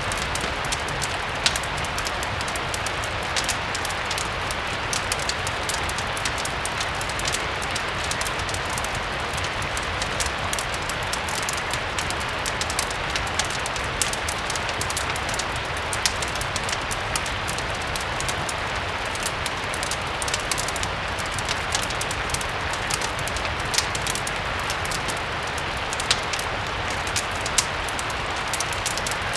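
Steady rain with a low rumble underneath, mixed with a crackling fireplace: an even rain hiss broken by scattered sharp clicks and pops.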